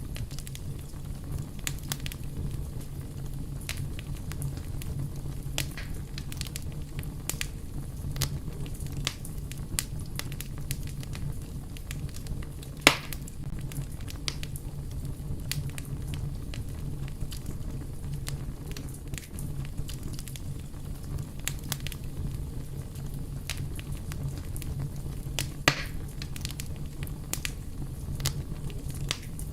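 Wood fire burning with a steady low rumble and scattered crackles, with two louder pops, one about halfway through and one near the end.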